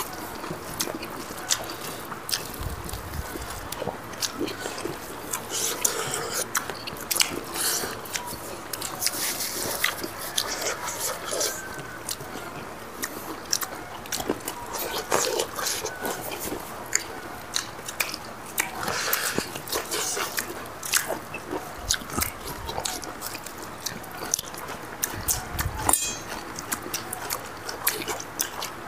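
People chewing and biting while eating chicken and rice by hand: a steady run of many short, wet mouth smacks and clicks.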